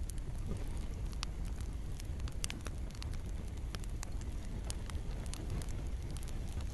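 Campfire crackling, with irregular sharp pops and snaps over a steady low rumble of the burning fire, mixed with gentle rain falling on leaves.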